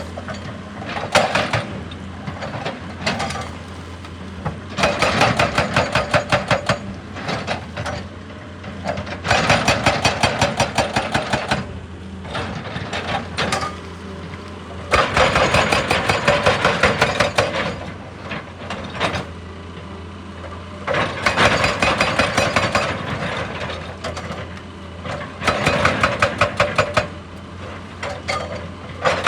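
Excavator's hydraulic breaker hammering in bursts of rapid blows two to three seconds long, about five times, over the steady hum of the engine.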